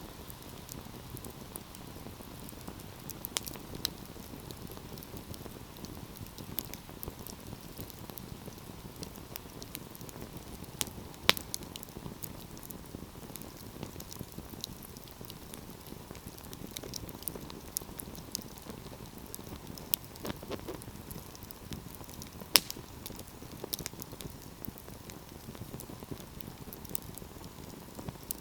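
Wood fire burning with a steady low rumble and scattered crackles and pops, two sharper pops standing out about eleven and twenty-two seconds in.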